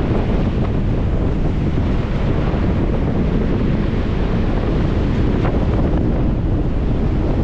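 Strong wind buffeting the microphone in a steady low rumble, over waves washing onto a lake shore.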